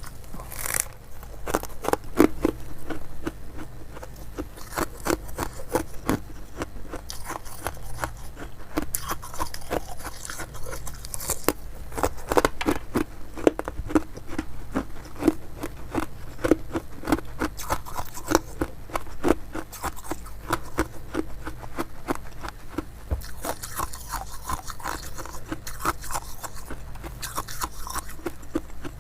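Ice being bitten and chewed: continuous crisp crunching and crackling, with louder individual bites now and then.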